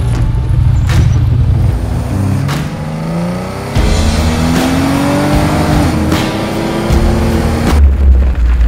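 A car engine accelerating, its pitch rising over several seconds and dropping back about six seconds in, mixed with background music that has a regular heavy beat.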